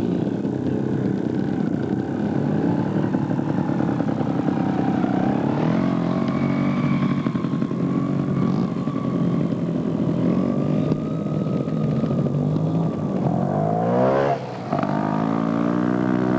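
A vehicle engine running, then revved up sharply near the end.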